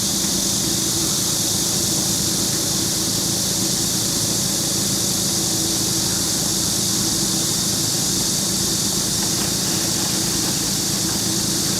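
A steady engine hum, two low unchanging tones, under a loud, even high hiss that holds at one level throughout.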